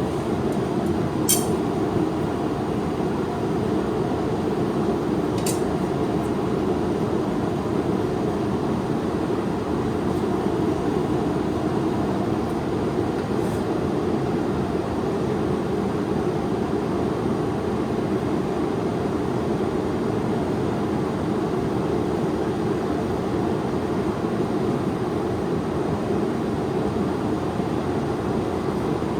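Knife-making forge running steadily with a constant low noise, with two sharp ticks in the first six seconds.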